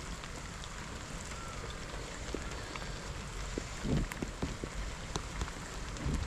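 Steady rain falling, with scattered drops ticking and a short low knock about four seconds in.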